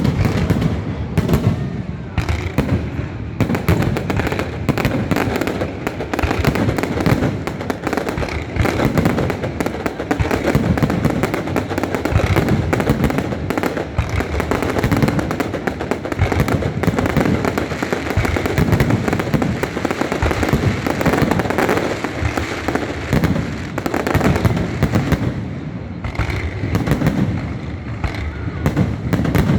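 Fireworks display going off in a dense, unbroken run of bangs and crackling bursts.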